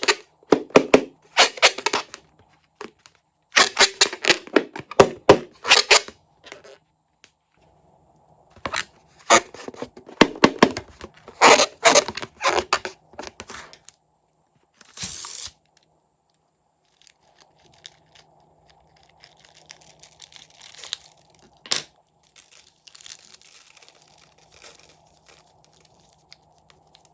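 Fluffy slime being stretched and squeezed by hand, giving clusters of crackling, tearing noises that come in bursts, fainter toward the end.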